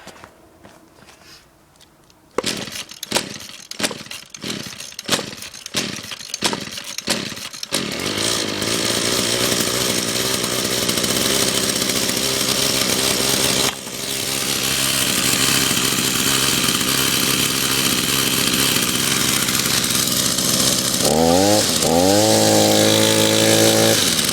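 Echo SRM-210 two-stroke string trimmer cold-started on choke: a run of pull-start strokes, then the engine catches about eight seconds in and runs steadily. Near the end it is revved up and down several times.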